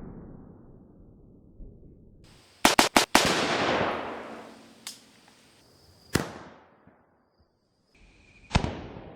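Rifle fire from a 5.56 semi-automatic rifle: four sharp shots in quick succession about three seconds in, the last trailing off in a long rumbling decay, then two more single shots a few seconds apart.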